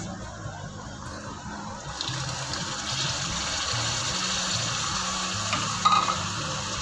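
Onions sizzling in hot oil in a frying pan; the sizzle grows louder about two seconds in as tomato paste goes into the pan.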